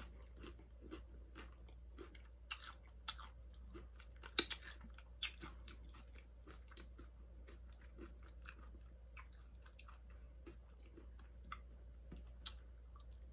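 A person chewing crunchy nacho tortilla chips close to the microphone, with a few sharp crunches standing out among quieter chewing.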